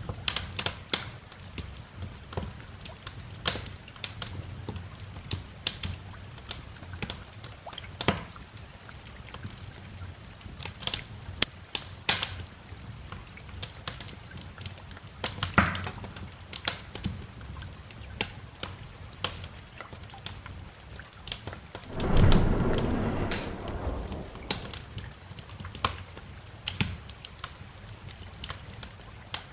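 Wood fire crackling, with irregular sharp pops and snaps over a steady hiss of rain. A low rumble of thunder swells for a couple of seconds about three-quarters of the way through.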